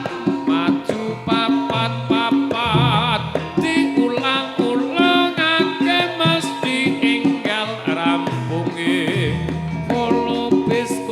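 Javanese gamelan music playing a gending, with frequent drum strokes and a wavering high melodic line over a steady pulse of lower notes.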